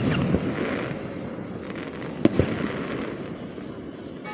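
Aerial fireworks bursting: a sharp bang at the start followed by crackling, and another bang about two seconds in.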